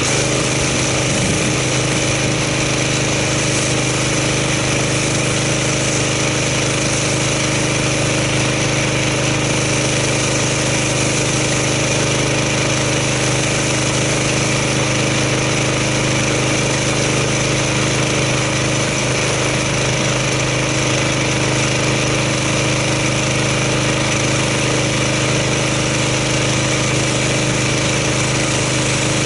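Gas pressure washer's engine running steadily under load with a steady hiss over it, while rinsing snow foam off a car.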